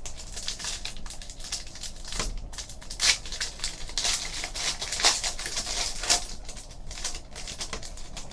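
Trading card pack wrapper crinkling and tearing as it is opened, in a run of crackles, the sharpest about three and five seconds in.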